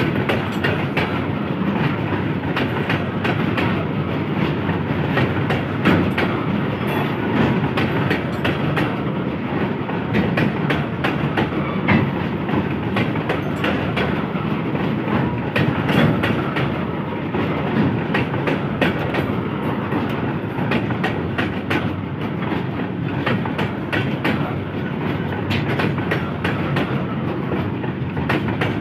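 Steel coal hopper wagons of a long freight train rolling slowly past at close range: a steady rumble with many sharp wheel clicks over the track.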